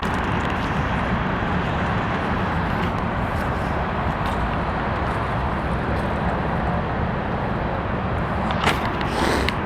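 Steady car noise, an even rushing of engine and road, with a couple of sharp clicks near the end.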